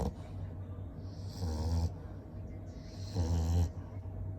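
English bulldog snoring in its sleep: two snores about half a second long each, roughly two seconds apart.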